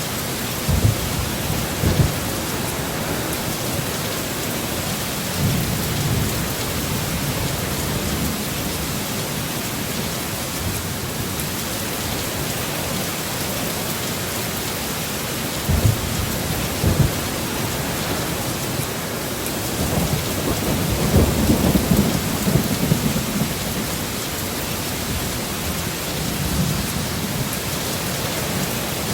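Steady heavy rain hissing, with low thunder rumbles under it: a few short low thumps and a longer swell of rumbling about twenty seconds in.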